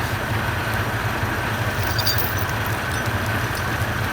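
Heavy military truck diesel engine running steadily with a deep, even rumble and a faint high whine above it.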